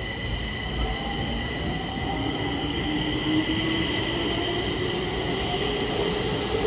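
Stockholm Metro train running, with steady high-pitched whines over a low rumble. A lower whine rises slowly in pitch as the train gathers speed.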